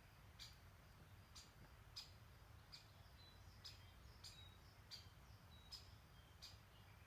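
Faint bird calls: one short, sharp chirp repeated roughly every two-thirds of a second, with a few brief thin whistles in between, over a faint low rumble.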